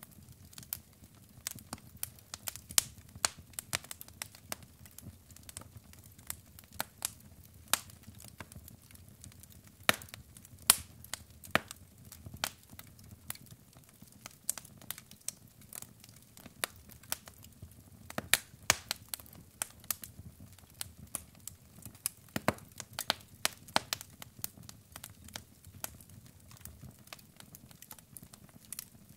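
Wood fire in a fireplace crackling, with irregular sharp pops and snaps of burning logs, some much louder than others, over a faint low rumble of the flames.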